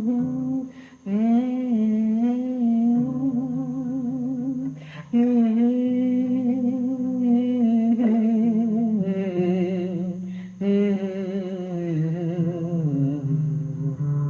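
Wordless humming or vocalising in a song, long held notes with a wavering vibrato in several phrases, over low sustained accompaniment notes.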